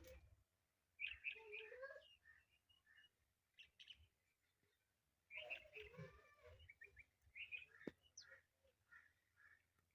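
Indian ringneck parrot chattering quietly, with two longer warbling bursts about a second and five seconds in and short chirps between.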